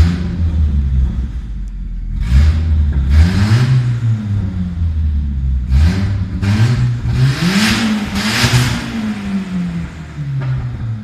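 Nissan CA18DET turbocharged 1.8-litre four-cylinder with a straight-pipe exhaust, revved in a string of about six short blips from idle, the pitch rising and falling with each one. The last two rises, near the end, are the longest.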